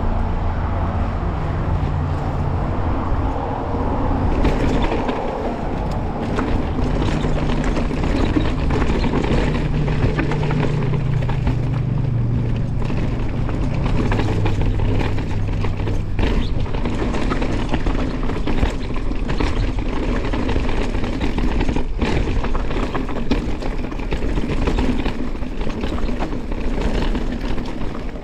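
Continuous rumbling ride noise on a dirt trail, with a low hum that drifts in pitch through the first half and scattered knocks and rattles throughout.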